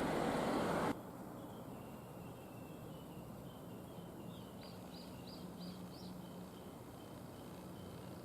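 Road-vehicle noise cuts off abruptly about a second in, leaving quiet ambience with a faint low hum. A bird sings softly through it: scattered chirps and a run of five quick rising notes.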